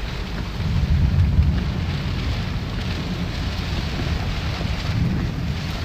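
Steady rushing of flash-flood water in the rain, with gusting wind buffeting the microphone as a low rumble that swells about a second in.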